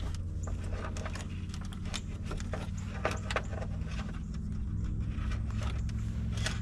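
Scattered small clicks and knocks of wire connectors and hand tools being handled while a ground wire is fitted behind a vehicle's dashboard, over a steady low hum.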